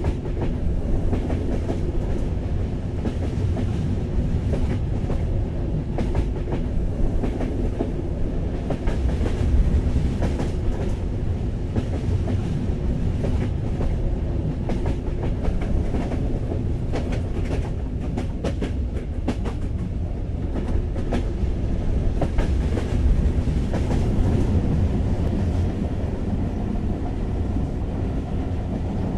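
Passenger train running, heard from inside the carriage: a steady low rumble with runs of clickety-clack from the wheels passing over rail joints, thickest around ten seconds in and again around eighteen to twenty seconds in.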